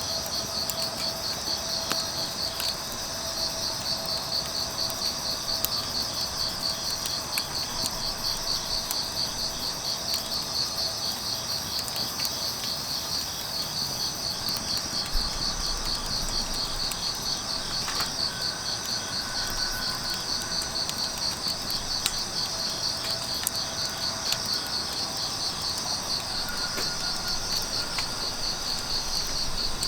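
Grass insects chirping in a steady, fast-pulsing trill, with scattered pops and crackles from a wood fire burning.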